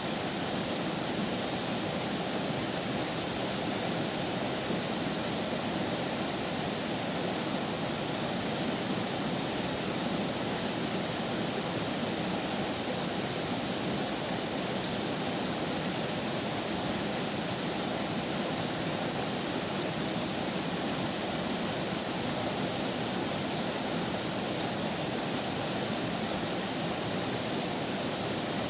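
River water running steadily, an even rushing noise with no changes.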